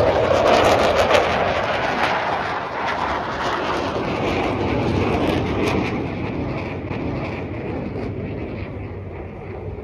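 Jet noise from Blue Angels F/A-18 Super Hornets passing: a loud, crackling rush at first that fades steadily away.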